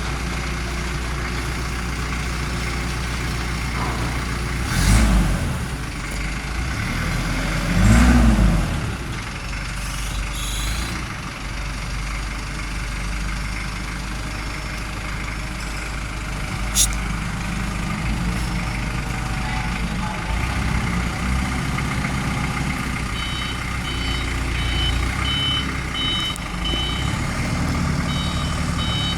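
Isuzu C240 four-cylinder diesel engine of a forklift idling, revved up and back down twice early on, with a single sharp click partway through. Near the end the forklift's reversing alarm starts beeping in repeated pulses over the running engine.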